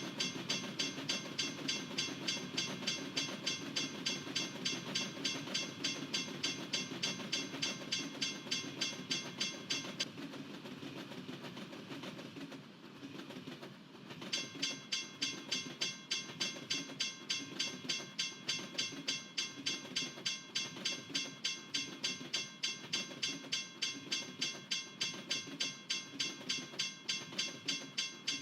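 A railroad crossing bell rings steadily at about two to three strokes a second over the low rumble of a passing freight train's cars. The bell drops out for about four seconds near the middle, leaving only the rumble of the train, and then resumes.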